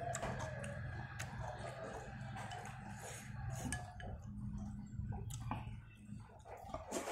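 Wet chewing of noodles and vegetables, with a few sharp clicks of chopsticks against the bowl, over a steady low hum.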